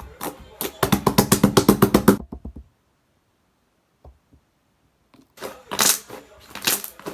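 Slime being pressed and worked by hand, giving a fast run of popping clicks for about a second and a half. After a short silent gap, a few louder squelching pops follow near the end.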